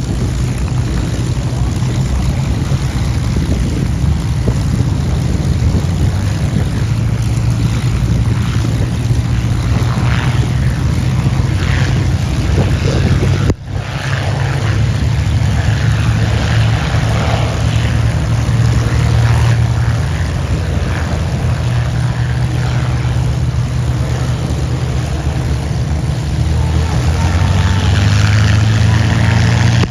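Many Spitfire and Hurricane piston engines running together as the formation passes overhead, a steady deep drone. It drops out sharply for a moment about halfway through and grows louder near the end.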